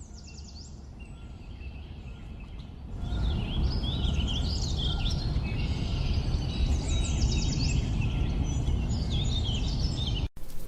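Several birds chirping and whistling in quick falling notes over a steady low rumble of background noise. The rumble swells about three seconds in, and the sound cuts out briefly just before the end.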